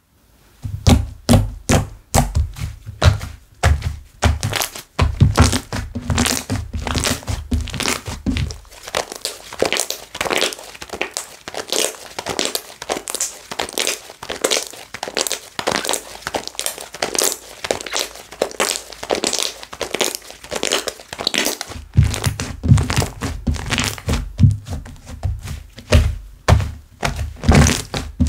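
Hands squishing and pressing slime, with a dense run of small crackling pops as air bubbles burst. Dull thumps of the slime being pressed come in the first several seconds and again near the end.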